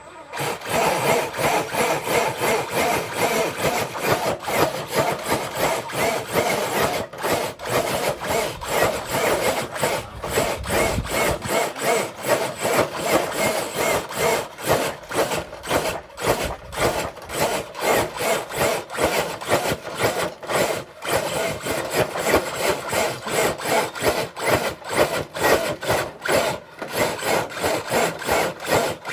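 A radio-controlled crawler truck dragging a brick-loaded dead-weight sled: a continuous rough grinding of motor, gears and the scraping sled under heavy load, pulsing rapidly and unevenly.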